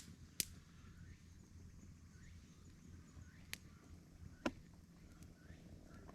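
Three sharp snaps, about half a second, three and a half and four and a half seconds in, over a faint steady low hum.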